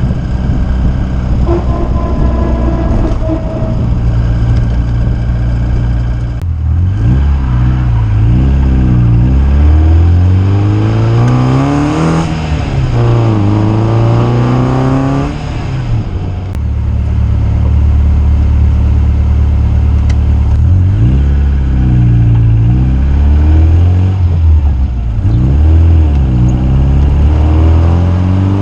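Rover K-series four-cylinder engine in an MG Midget on the move. It holds a steady note for the first several seconds, then revs up and drops back repeatedly as the car accelerates through the gears.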